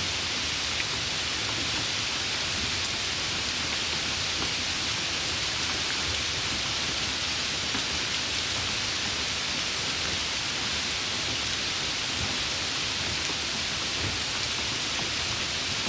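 Steady rainfall, an even hiss of falling rain with faint scattered drop ticks.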